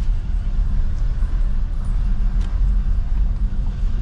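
Low, steady rumble of a car's engine and road noise heard from inside the moving car.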